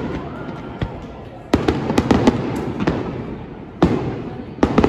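Aerial fireworks shells bursting: a sharp bang about a second and a half in, followed by a run of cracks, and more bangs near the end, each trailing off in a fading, echoing rumble.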